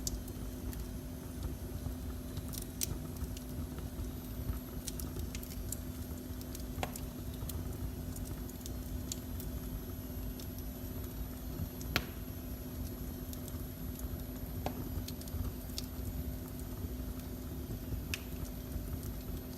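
Fire burning in a fireplace: scattered sharp crackles and pops, the sharpest about twelve seconds in, over a steady low rumble and a faint steady hum.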